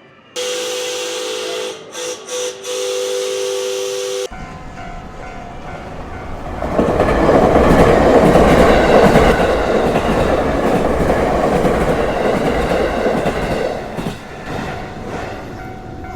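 A train's two-note whistle sounds steadily for about four seconds, broken twice briefly. Then a train's running rumble and wheel clatter builds, is loudest in the middle, and eases toward the end.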